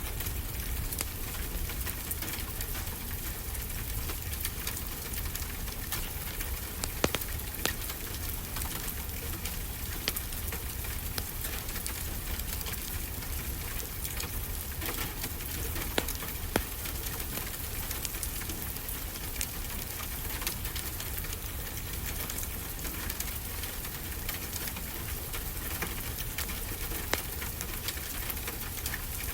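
Steady rain with a wood fire crackling: a constant hiss and low rumble, with scattered sharp pops from the fire.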